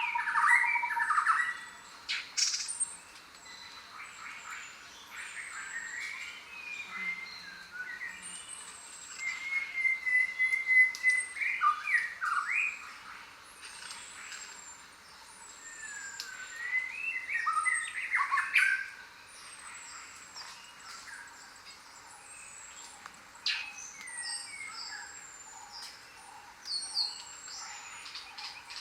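A jungle bird chorus: many birds chirping, whistling and squawking at once, over a thin, short, falling high note that repeats throughout. The calling swells in several louder bursts, one with a held whistle, and eases between them.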